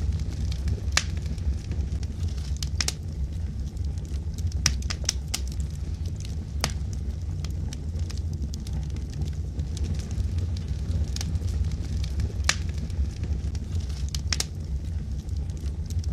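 Wood logs burning in a fireplace: a steady low rumble with scattered sharp crackles and pops at irregular intervals, some coming in quick clusters.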